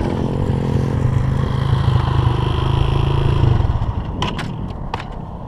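Small dirt-bike engine running at a steady low pitch, then dying away about three and a half seconds in, followed by a few sharp clicks and clatters.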